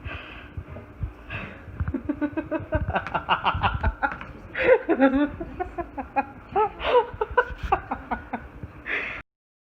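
A person laughing in quick, rhythmic bursts of giggles and chuckles that cuts off abruptly near the end.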